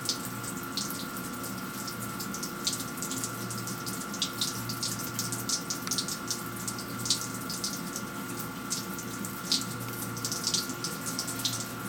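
Flood coolant on a Tormach 15L slant-bed lathe running, with coolant spraying and splattering out around a leaking turret coolant-line fitting. There is a steady pump hum and whine under irregular spatter.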